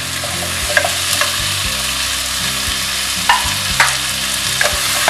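Chopped tomatoes and onions sizzling in hot oil in a pan while a wooden spatula stirs them, its strokes knocking against the pan several times.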